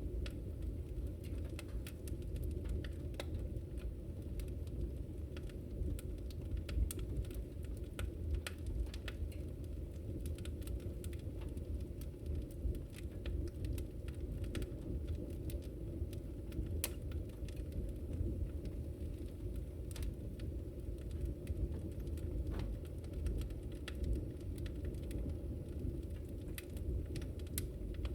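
Wood fire burning in a fireplace: a steady low rumble with scattered, irregular crackles and pops.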